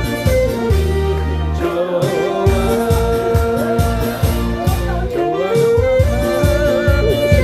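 Alto saxophone playing a trot melody over a backing track with a steady bass beat. The notes are held and slide from one to the next.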